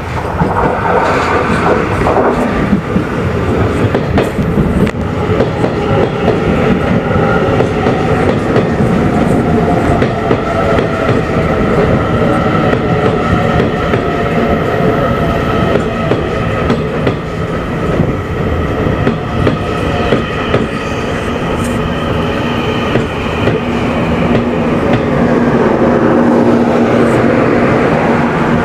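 Train running close by on Taiwan Railway track, loud, wheels clacking over the rail joints, with a steady whine above the clatter.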